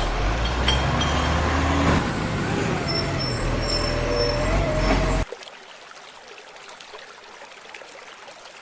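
A truck running with a loud hiss over a low hum, which cuts off suddenly about five seconds in and leaves a quieter, steady noise.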